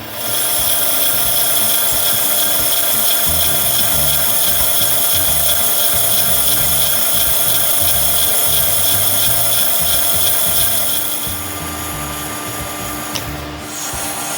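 CNC machine spindle milling POM (acetal) plastic: a steady high whine with a rasping cutting noise that starts suddenly, then eases off about eleven seconds in.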